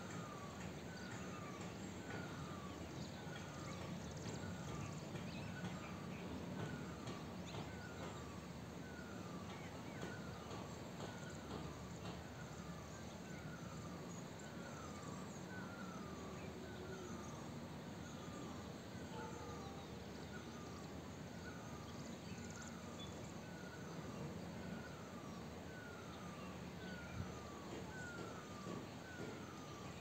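A bird repeating a short falling call note about once a second, over a steady low background rumble.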